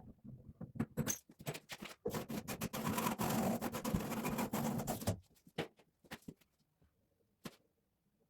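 Handling noises: scattered clicks and taps, with a dense stretch of rustling or scraping from about two seconds in that stops abruptly near the middle.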